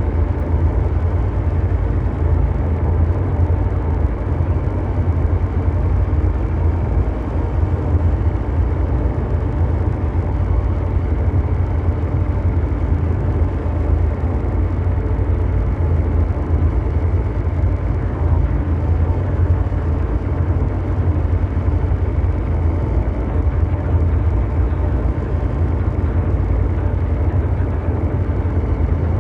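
Continuous ambient mechanical drone: a deep, steady rumbling noise with faint sustained hum tones above it, unchanging throughout.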